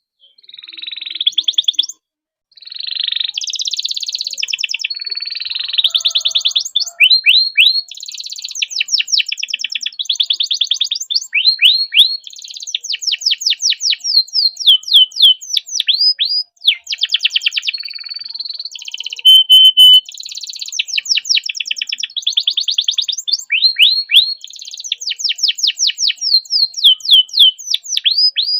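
Canary singing a long, continuous song of fast trills and rapidly repeated notes, the phrases changing every second or two, with a short break about two seconds in.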